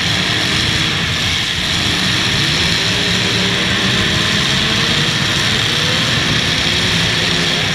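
Several demolition derby cars' engines running hard, with steady rising pitch as they rev.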